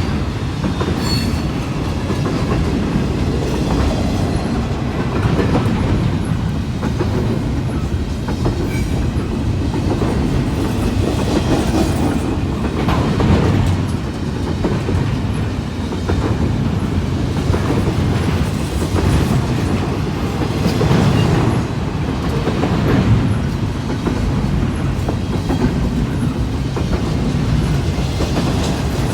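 Freight train rolling past at track side: a steady rumble of railcars with the wheels clacking over rail joints.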